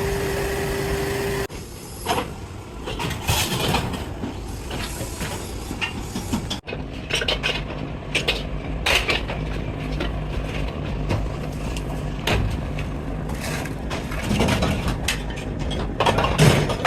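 Heavy workshop machinery running with a low rumble and repeated sharp metallic clanks and knocks. A steady hum cuts off abruptly about a second and a half in.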